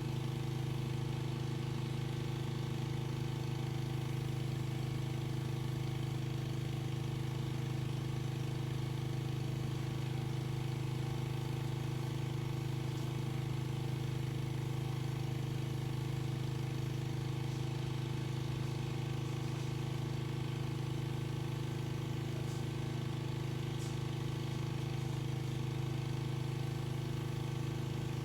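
Pressure washer running steadily, its motor holding one even pitch with no change in speed.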